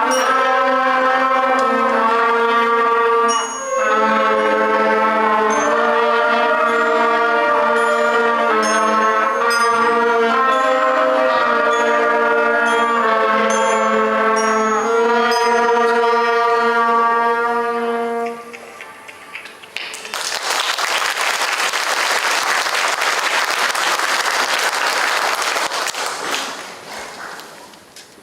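School concert band playing a piece, brass prominent, which ends about two-thirds of the way through. After a short pause the audience applauds for several seconds, then the applause dies away.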